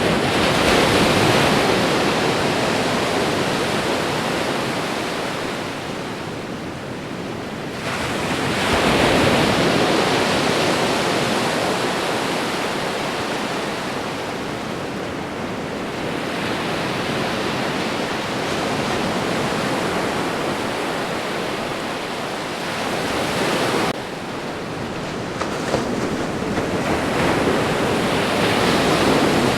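Ocean waves breaking on a shore: a continuous rush of surf that swells as each wave crashes, once near the start, again about eight seconds in and again near the end, washing out slowly in between. The sound drops abruptly once, a little past three quarters of the way through.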